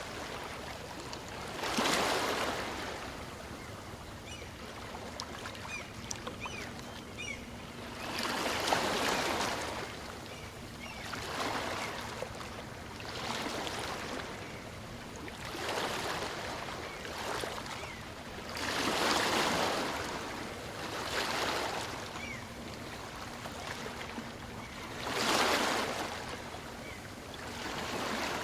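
Small waves on a calm sea washing up a beach and drawing back, a hiss of surf that swells and fades every few seconds, with the strongest waves about two, nine, nineteen and twenty-five seconds in.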